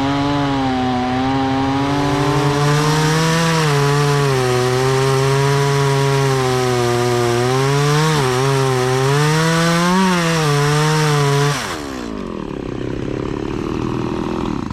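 Stihl MS170 two-stroke chainsaw running at full throttle through a cut, its engine note dipping and recovering under the load of the chain biting into wood. About three seconds before the end the throttle is let off and the revs fall away to a lower, quieter idle.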